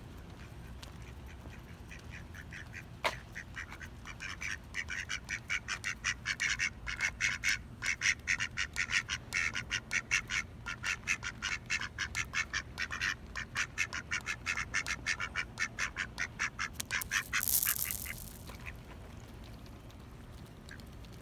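Ducks quacking in a fast run of short calls, several a second, starting about four seconds in and stopping near eighteen seconds. A single sharp click comes just before, and a brief hiss near the end of the calling.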